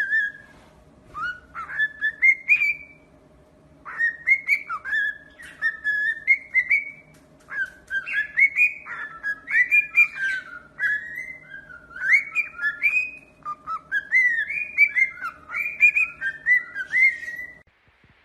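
A parrot whistling long runs of short rising and falling notes, with brief pauses about three and seven seconds in, stopping just before the end.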